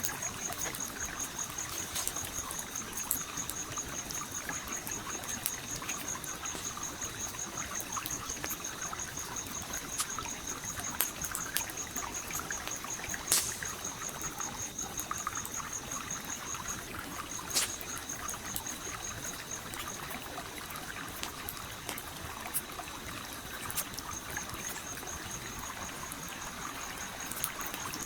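Gently flowing stream with a campfire crackling over it, giving scattered sharp pops, a few of them louder. A high, rapidly pulsing trill runs along with it, breaks off about two-thirds of the way through and comes back near the end.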